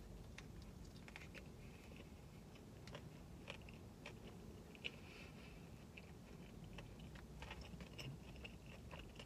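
Faint chewing of a mouthful of cheeseburger: scattered soft mouth clicks and smacks, with one sharper click about halfway through.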